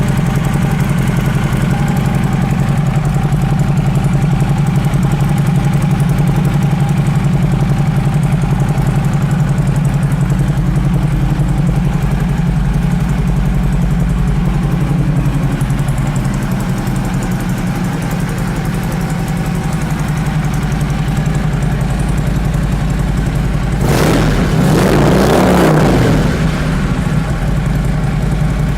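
2015 Harley-Davidson Road Glide Special's Twin Cam 103 V-twin idling steadily through its Bassani aftermarket exhaust, with one quick rev of the throttle about 24 seconds in before it settles back to idle.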